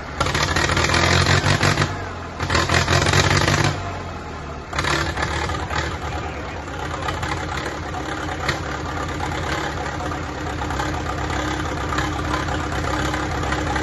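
Classic farm tractor engine revving in two loud bursts over the first few seconds, then running steadily at a lower level.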